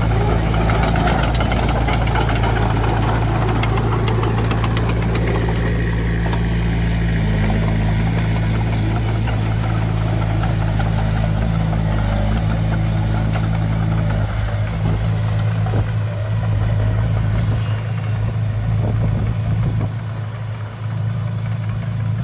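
Heavy diesel vehicle engine running steadily, a loud low hum that weakens somewhat after about fourteen seconds.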